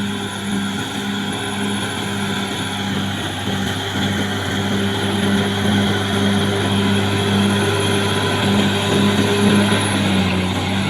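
Caterpillar D6R XL bulldozer's six-cylinder diesel engine running steadily, a constant loud drone that holds its pitch.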